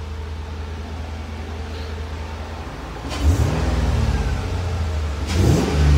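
LS3 6.2-litre V8 in a 1986 Range Rover Classic idling steadily, then revved twice: a blip about three seconds in that rises and falls, and another near the end.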